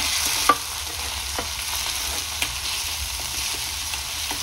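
Tomatoes and green chillies sizzling in hot oil in a pan, a steady hiss, with a few sharp clinks of a utensil stirring against the pan, the loudest about half a second in.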